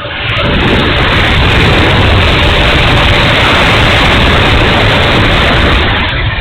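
E-flite F-16 70 mm electric ducted-fan jet making a loud steady rushing roar with a faint whine under it. The roar swells within the first second, holds, and falls away near the end.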